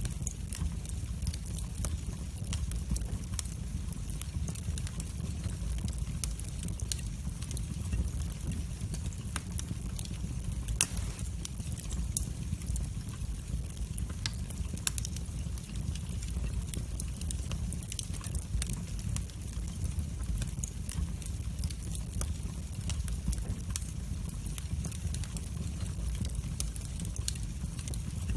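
Wood fire burning in a fireplace, crackling with many small irregular pops over a steady low rumble, and one louder pop about eleven seconds in.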